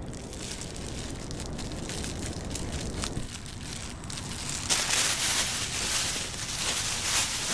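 Steady outdoor background noise with faint crackles and rustles; a hiss grows louder about two thirds of the way in.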